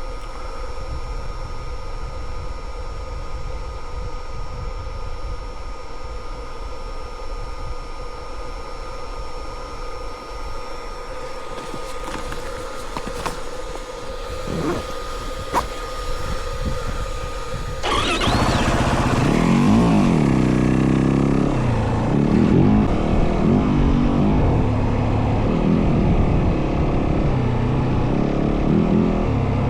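Yamaha WR450F single-cylinder four-stroke dirt bike engine. It holds a steady low rumble for the first half, then about eighteen seconds in it gets louder, its pitch rising and falling over and over with the throttle as the bike is ridden.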